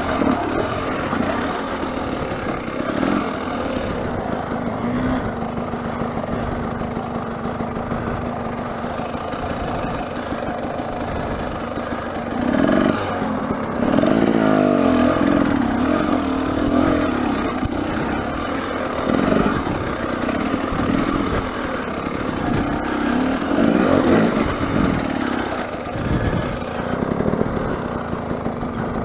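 A 300 cc two-stroke dirt bike engine running at steady low revs, picking up in revs several times. The longest and loudest rise comes about halfway through.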